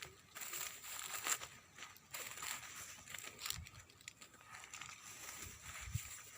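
Footsteps crunching and crackling irregularly on dry, stony ground.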